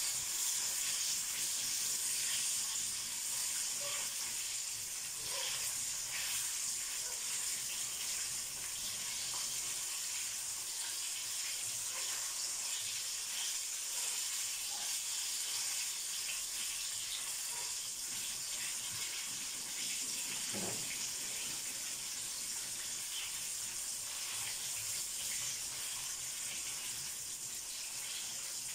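Battered chicken strips deep-frying in hot oil in a pan: a steady sizzle with occasional faint clicks.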